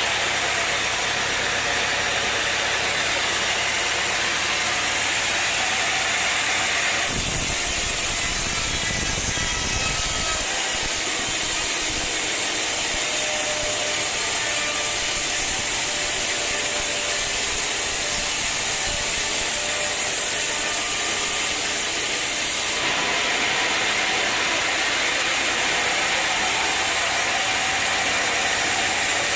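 Sawmill running steadily with its engine going. From about seven seconds in to about twenty-three seconds the sound turns harsher and brighter as the saw cuts through wood.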